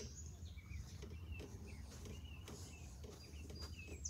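Birds chirping in short, repeated calls over a faint, steady low rumble.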